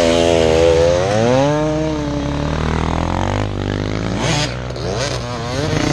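Yamaha YZ250 two-stroke dirt bike engine being revved, its pitch wavering up and down and climbing about a second in. It drops away briefly, then revs again near the end.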